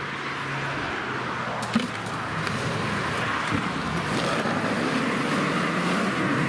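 Off-road SUV engine running at low revs, its note wavering, with one sharp knock a little under two seconds in.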